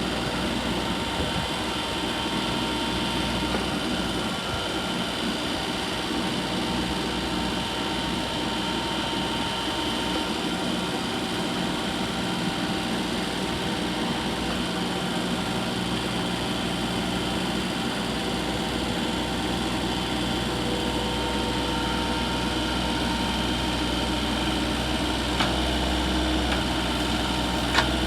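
Kubota compact tractor engine running steadily at a constant pitch.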